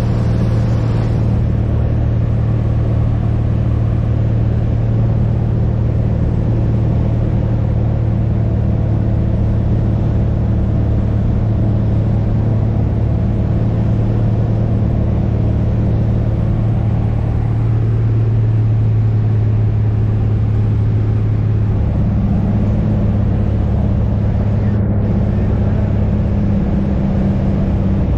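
Light aircraft's piston engine and propeller, a steady loud drone heard inside the cabin, its pitch shifting slightly about two-thirds of the way through.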